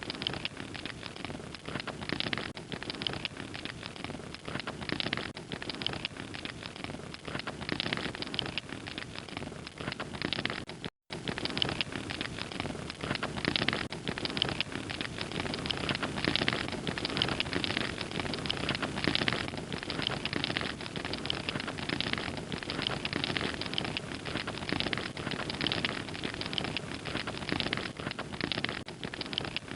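Wood fire crackling steadily, a dense run of small pops and snaps over a soft rushing hiss. It cuts out for a split second about eleven seconds in.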